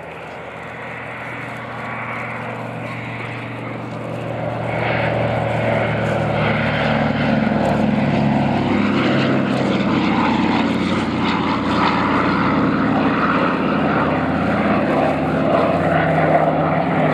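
Douglas Dakota's twin Pratt & Whitney Twin Wasp radial engines and propellers passing in flight, with their distinctive rasp. The sound grows louder over the first five seconds or so as the aircraft approaches, then stays loud and steady.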